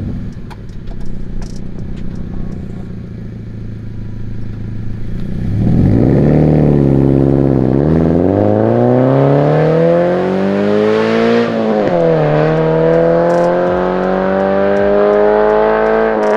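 Subaru FA20 flat-four engine of a Scion FR-S running through a Tomei Expreme Ti titanium catback exhaust and being revved. The pitch falls at first, jumps up about five seconds in, then climbs steadily over several seconds, drops sharply near the end and climbs again.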